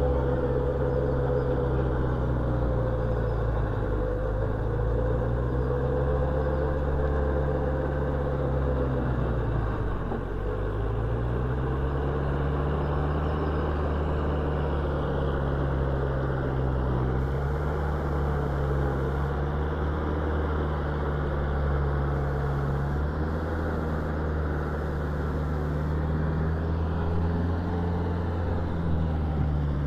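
Tractor's diesel engine running steadily under load, driving a rotavator through hard soil. The engine note sags about ten seconds in, then picks back up.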